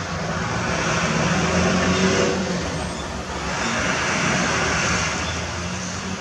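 Road vehicles passing, a hiss of tyres on a wet road that swells twice, with the second swell a couple of seconds after the first.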